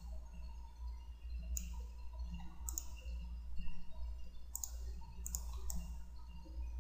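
Computer mouse clicking, sharp clicks often in quick pairs, scattered irregularly as objects are selected and moved in 3D software, over a steady low electrical hum.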